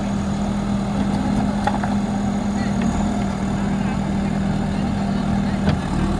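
Diesel engine of a JCB backhoe loader running steadily with a deep, even hum, and a single sharp knock near the end.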